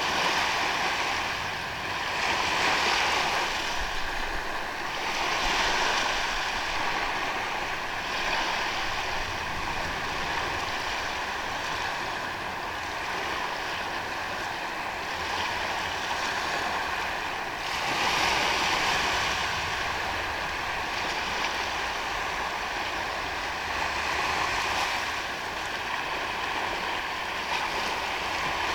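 Ocean waves washing onto a sandy beach, swelling and falling back every few seconds, with a larger wave about eighteen seconds in.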